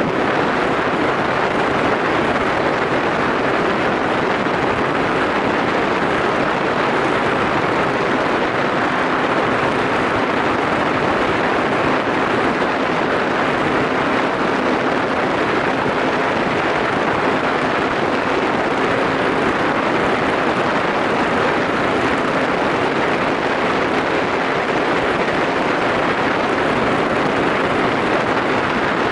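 Yamaha SRX400 motorcycle cruising at a steady speed: wind rushing over the microphone, with the single-cylinder engine running steadily underneath.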